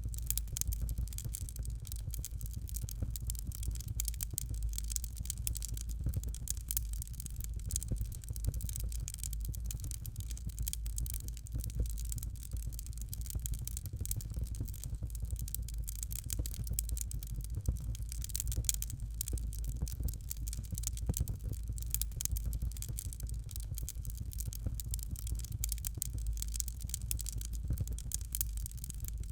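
Fireplace fire crackling steadily with dense small pops, over a constant low rumble.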